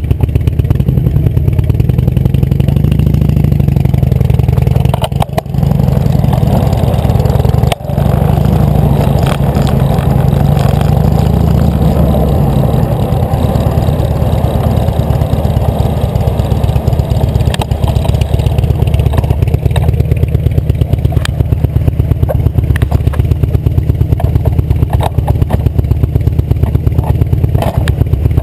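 Wind buffeting the microphone of a camera riding along on a moving bicycle: a loud, continuous low rumble that flutters rapidly, dropping away briefly twice, once about five seconds in and again near eight seconds.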